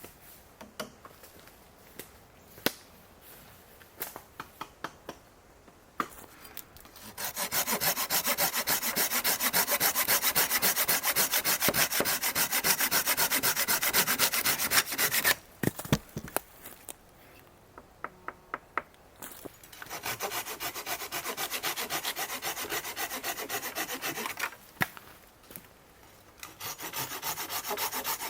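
Wood being sawn by hand in quick, even strokes, in three spells with short pauses between, after a few seconds of scattered small clicks and knocks.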